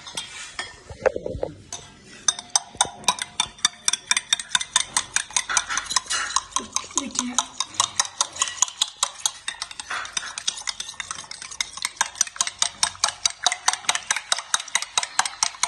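Spoon beating a raw egg in a bowl, the spoon clicking against the bowl in a fast, even rhythm of about five strokes a second; it starts about two seconds in.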